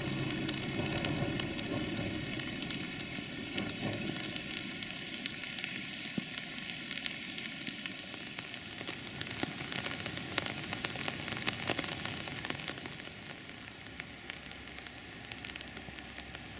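Rain pattering with many small drops ticking, while the low rumble of a passing passenger train dies away over the first few seconds; a faint steady hum from the train lingers until about two thirds of the way through.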